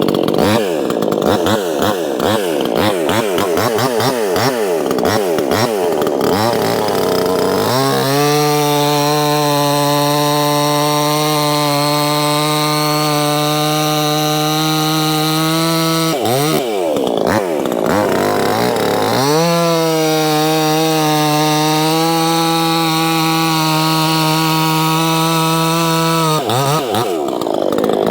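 Proyama 68cc two-stroke chainsaw cutting firewood rounds at full throttle: the engine wavers in pitch for the first several seconds, then holds a steady high pitch through two long cuts, dropping back briefly about halfway through and again near the end.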